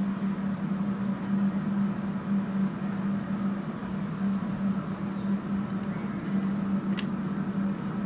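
Electric fans running steadily, a constant hum over an even rush of air, with one short click about seven seconds in.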